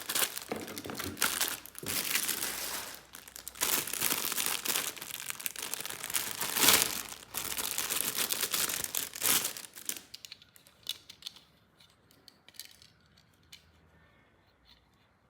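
Plastic packaging crinkling and tearing as toy parts are unwrapped. It goes on for about ten seconds, then gives way to a few light clicks and taps.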